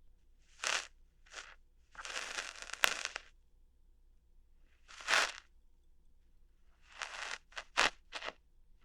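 Close-miked ASMR ear-hair plucking: short crackly scratches and pops, some alone and some in quick clusters, with a longer rough scraping stretch about two seconds in.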